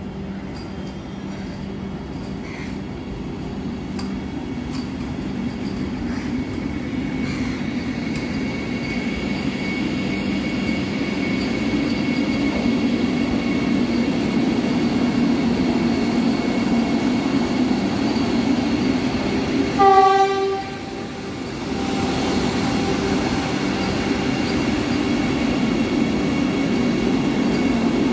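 Vande Bharat Express electric train set running in along the platform, its rumble growing louder as the coaches pass close by. About two-thirds of the way through there is one short horn blast.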